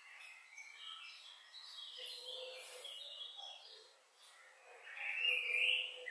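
Bird song: a run of short chirping notes at shifting pitches, loudest near the end.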